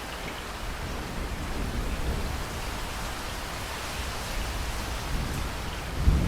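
Steady heavy rain, with low thunder rumbling underneath that swells and then surges louder near the end.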